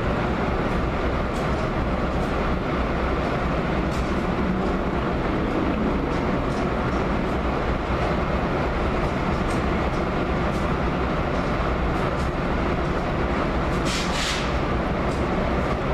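Steady rumble of a moving train, with faint scattered clicks and a short hiss near the end.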